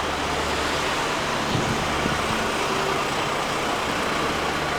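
Steady motor-vehicle road noise, with a low engine hum under an even rush of sound.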